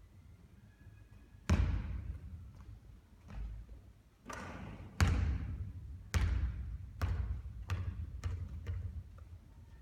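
Basketball bouncing on a court. There is a hard bounce about a second and a half in and the loudest one at about five seconds. After that comes a run of bounces that come quicker and quieter as the ball settles.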